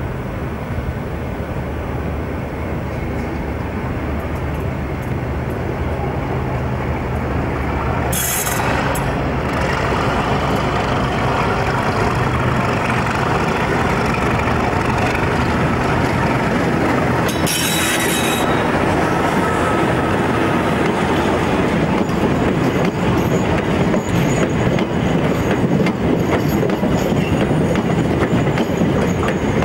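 British Rail Class 37 diesel locomotive hauling a freight train, its engine running and growing louder as it approaches, then the loaded wagons rolling past close by with a dense rumble of wheels on rails.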